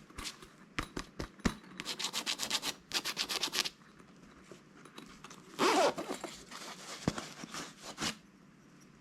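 Slime and its plastic packaging handled up close: a few sharp clicks, then a fast run of crackles, then a louder rustle and a few more clicks.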